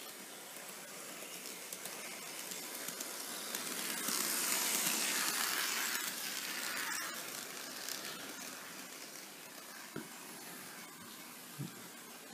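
Running noise of a DCC-controlled HO-scale Athearn SD45-2 model diesel locomotive on a test track: a steady hissing whir from its motor and wheels that swells as it passes close, about four to six seconds in, then fades, with a couple of light clicks near the end.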